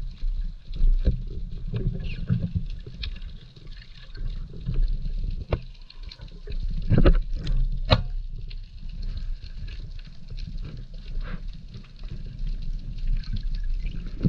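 Muffled water movement heard underwater: sloshing and bubbling over a steady low rumble, with a few sharp knocks in the middle.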